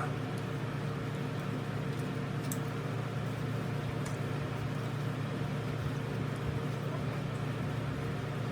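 A steady low mechanical hum that does not change, with a few faint light clicks over it.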